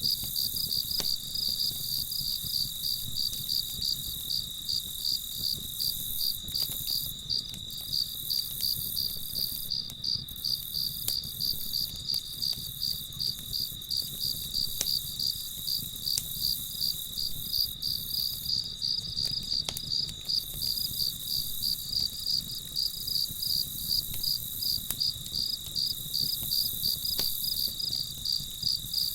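Crickets chirping in a steady, even rhythm of about three high-pitched chirps a second.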